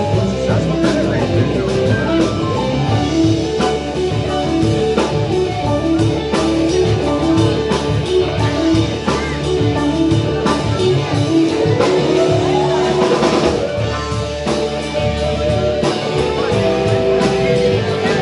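Rock music with electric guitar and drums playing a busy instrumental passage, with a rising glide about twelve seconds in.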